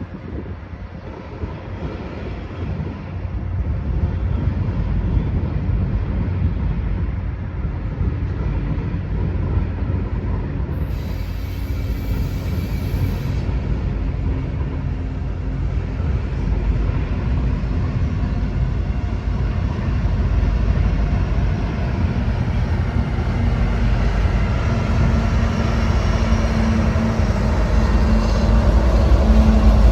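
Diesel freight train approaching: a low rumble that grows steadily louder, with a steady engine tone coming in over the second half.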